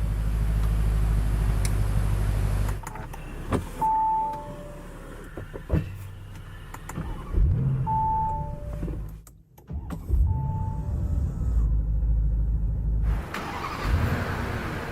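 A 2024 Bentley running at idle with a steady low hum, among sharp clicks, while an electronic two-note chime, a high note then a lower one, sounds three times.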